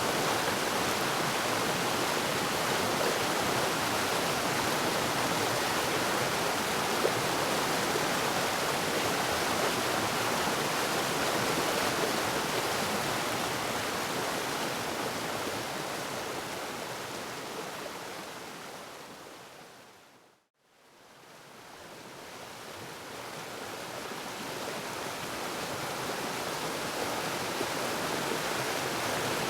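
Waterfall, a steady rush of falling water. About two-thirds of the way through it fades down to a moment of silence and then fades back up.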